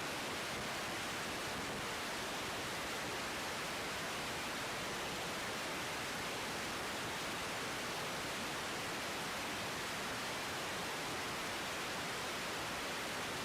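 Steady, even hiss of static from an air traffic control radio feed between transmissions.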